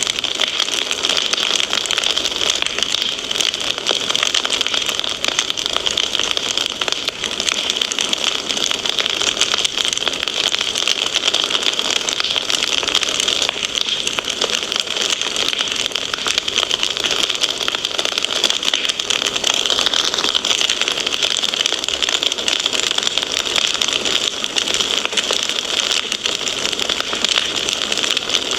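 Wood fire crackling in a fireplace: a steady hiss thick with small pops and snaps.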